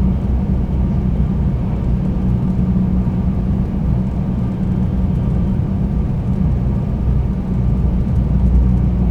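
Inside a 300 series Shinkansen passenger car while the train runs: a steady low rumble of running noise with a constant hum underneath.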